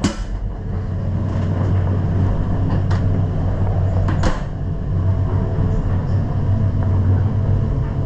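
Steady low rumble of a Deutsche Bahn passenger train running, heard from inside the carriage, with a few sharp knocks, the loudest at the start and another about four seconds in.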